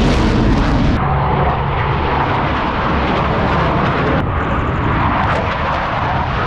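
Airplane engine noise at an air show: a loud, steady rushing roar that changes abruptly about a second in and again about four seconds in.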